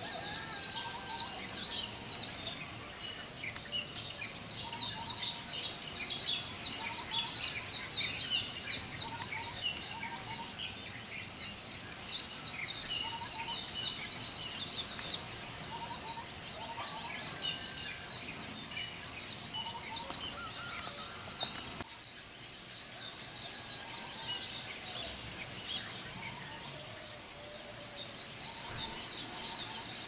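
Many birds calling at once: fast high chirping in repeated bursts of several seconds, with scattered lower whistled notes beneath.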